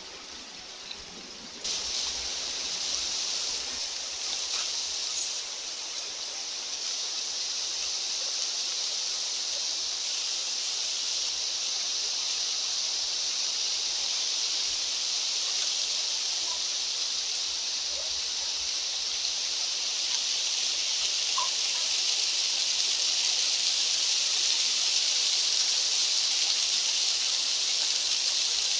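Steady rushing hiss of outdoor nature ambience that jumps up in level about two seconds in, then slowly swells louder.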